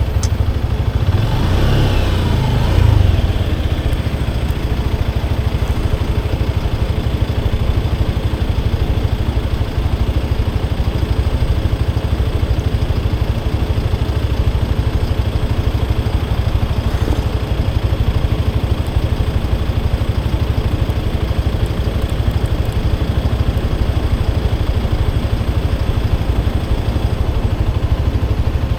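Motorcycle engine running steadily with a heavy low rumble. About one to three seconds in there is a brief louder rev, rising and falling in pitch.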